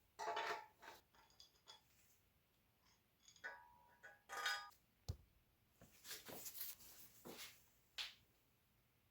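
Scattered clinks, scrapes and knocks of hand work on metal bicycle parts, some clinks ringing briefly, with pauses between them.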